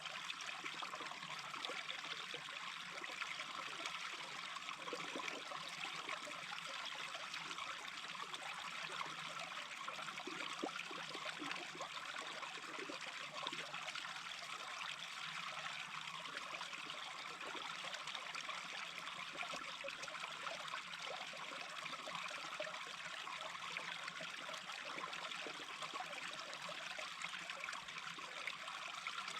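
Small stream trickling and babbling over stones, a steady, even flow.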